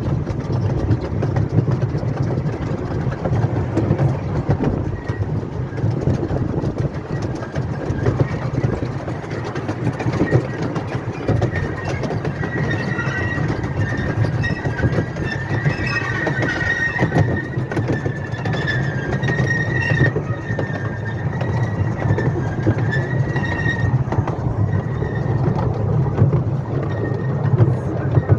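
Miniature railway train running on its track: a steady rumble with wheel clatter. A high wheel squeal on the rails rises about twelve seconds in and fades about twelve seconds later.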